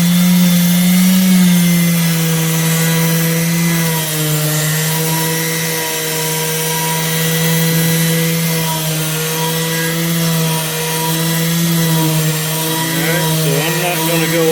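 Small Ryobi electric sander running steadily with a 120-grit pad, sanding curb-rash scratches out of an aluminum wheel: a steady motor hum whose pitch wavers slightly as the pad is worked across the metal, over a gritty hiss.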